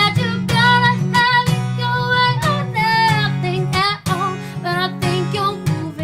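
Acoustic guitar strummed steadily under a woman's sung vocal line, with held notes that waver and slide between pitches.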